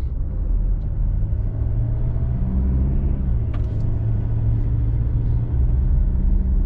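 Diesel vehicle's engine and tyre noise heard from inside the cabin while driving up a mountain road: a steady low drone, with a short tick about three and a half seconds in.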